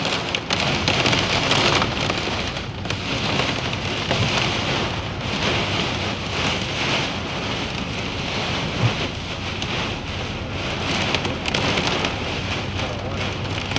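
Heavy monsoon rain falling on a car, heard from inside the car: a dense, steady hiss of rain on the glass and body.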